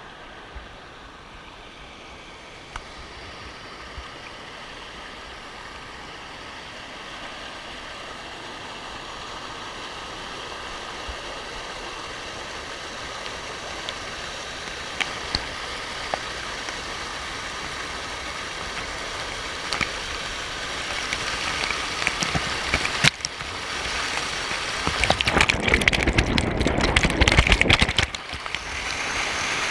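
Waterfall rushing as a steady wash of water noise that grows gradually louder, then turns louder and uneven with scattered crackling spikes near the end.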